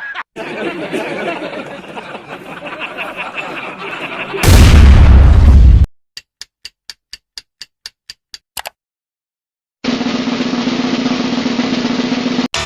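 A string of abruptly cut sound effects: a noisy, rhythmic passage; a very loud low rumble lasting about a second and a half; about a dozen evenly spaced clicks; a short silence; then a steady hum.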